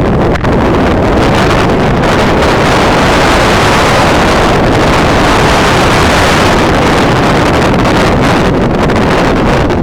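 Strong wind buffeting the microphone: a loud, steady rush of noise with no clear tones.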